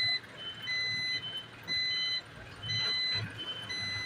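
Garbage truck's reversing alarm beeping about once a second, each loud beep followed by a fainter one at a different pitch, over the low rumble of the Isuzu garbage truck's engine.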